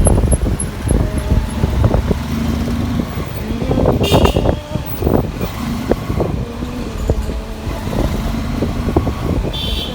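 Busy road traffic heard from a motorbike: steady engine rumble with engine pitches rising and falling. A vehicle horn sounds briefly about four seconds in and honks again near the end.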